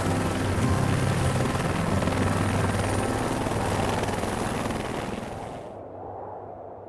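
Helicopter rotor and engine noise with a fast, even blade chop, fading away and losing its hiss about six seconds in.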